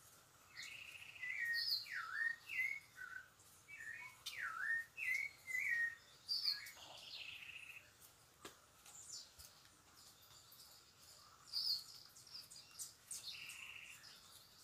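Birds singing: short whistled notes that dip and rise, repeated in quick phrases, with higher chirps and a few buzzy notes. A single sharp click about eight and a half seconds in.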